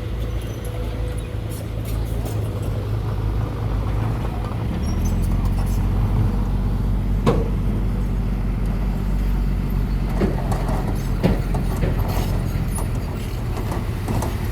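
Construction-machine engine running steadily with a low hum that drops to a lower, steadier note about five seconds in. It is broken by a sharp knock about seven seconds in and another around eleven seconds.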